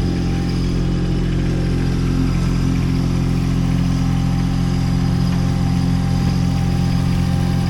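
Baumalight TRL620D mini skid steer's engine running at a steady speed while the machine is driven onto a truck.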